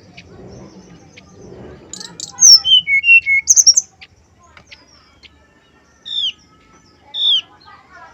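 Brown-chested jungle flycatcher singing: a quick, loud phrase of sharp high notes and clear whistles about two seconds in, followed by two single downslurred whistles.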